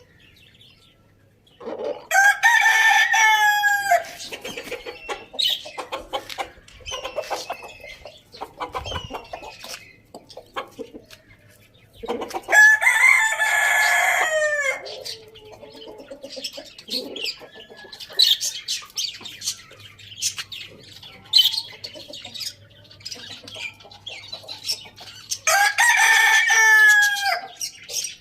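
Roosters crowing three times, each crow about two seconds long and the loudest sound, with chickens clucking in between.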